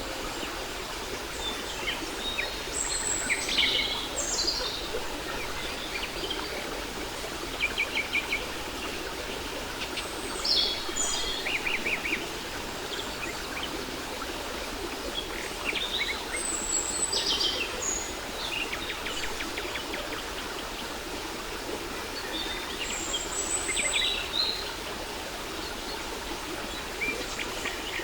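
Steady rushing of a waterfall with songbirds calling over it: short chirps, rapid trills and high whistled notes every few seconds.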